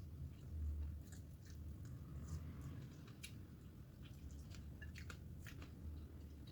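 A person chewing a mouthful of food close to the microphone, with many short, irregular wet clicks and smacks of the mouth.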